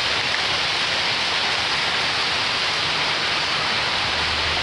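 Heavy rain mixed with pea- and marble-sized hail coming down steadily, drops and pellets pattering on the surfaces around.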